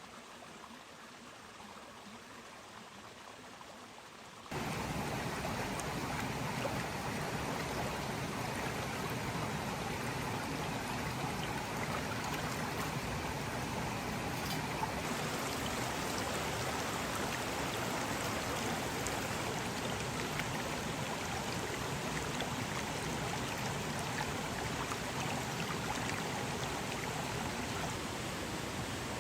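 Steady rush of running water, cutting in suddenly about four seconds in after a faint hiss.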